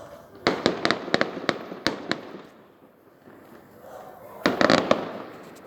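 Fireworks going off: a quick string of sharp bangs for about a second and a half, a pause, then a dense cluster of bangs shortly before the end.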